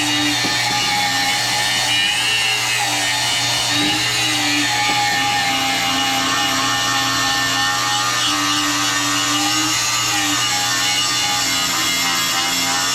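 Power sander grinding down a welded cast-aluminium skeg on a boat outdrive. It runs steadily, its motor pitch dipping and recovering as it is pressed into the work.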